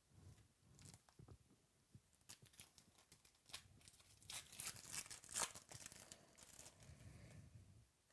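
Faint crinkling and tearing of a foil trading card pack wrapper being ripped open, in a cluster of crackles from about two seconds in, loudest around five seconds.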